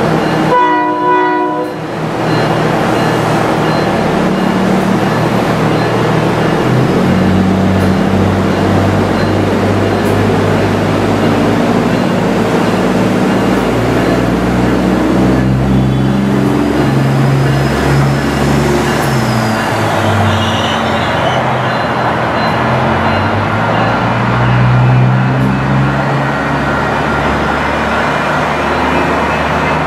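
A short train horn blast near the start, then the diesel engines of a Nippon Sharyo diesel multiple unit running loud and steady, their pitch rising and falling in steps as the train moves.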